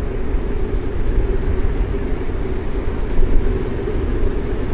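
Steady low rumble of city street noise with traffic, with no single event standing out.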